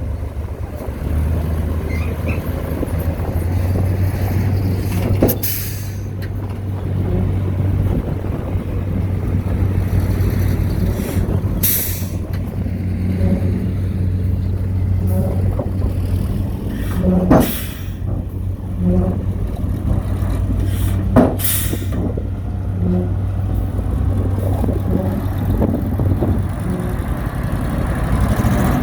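Diesel engine of heavy earthmoving machinery running steadily with a low hum, broken by several short sharp sounds.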